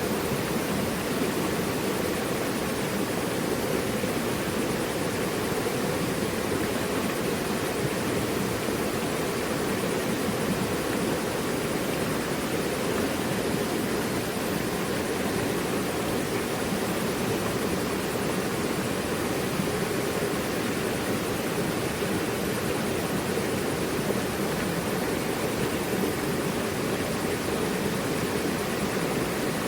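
Mountain river flowing: a steady, unbroken rush of water, fullest in its low, deep part.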